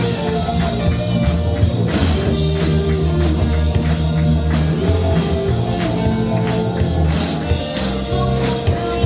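Rock band playing: a drum kit keeping a steady beat under bass and guitar.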